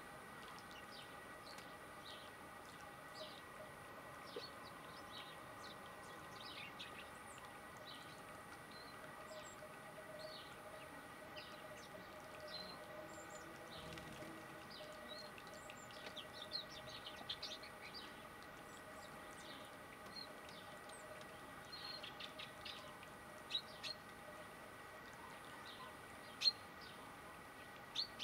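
Small songbirds chirping and twittering in short, high calls scattered throughout, a few louder ones near the end, over a faint steady hum.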